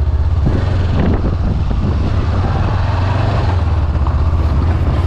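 Motorcycle engine running steadily with an even low throb, with some wind noise on the microphone.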